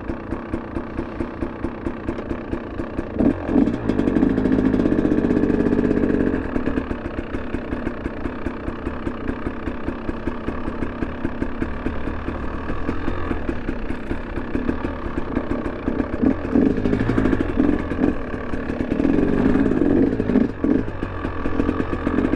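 2023 KTM 300 Erzbergrodeo two-stroke dirt bike engine running while riding, with the throttle opened up louder for a few seconds about four seconds in and again near the end.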